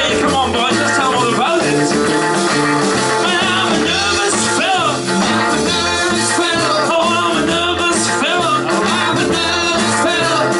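Rock and roll band playing live, with singing over a bass line that steps evenly from note to note.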